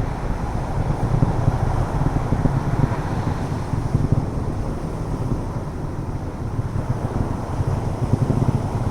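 Wind buffeting the microphone: a steady, choppy low rumble.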